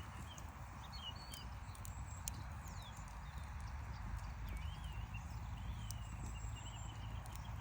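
Campfire crackling, with scattered sharp pops over a steady low rumble. Faint bird chirps come through now and then.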